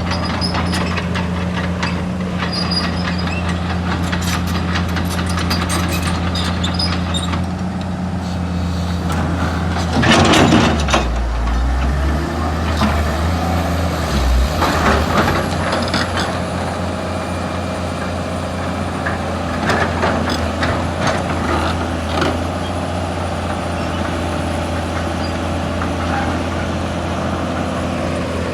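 Excavator's diesel engine running steadily. About ten seconds in there is a loud hissing rush, and the engine note drops lower for a few seconds as the machine works under load, with scattered clanks throughout.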